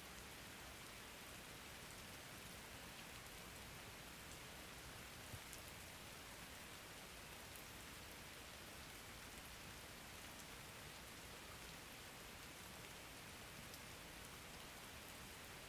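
Soft, steady rain: an even hiss, with a faint drop tick now and then.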